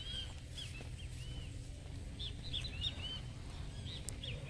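Small birds chirping, repeated short arching high notes coming every fraction of a second, over a steady low rumble.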